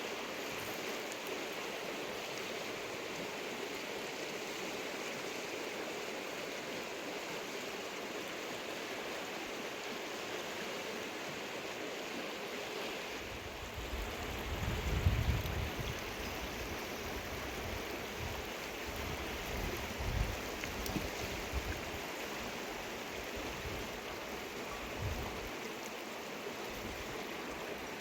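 Mountain river rushing steadily. About halfway through come several low, uneven rumbles, the loudest a few seconds after they start.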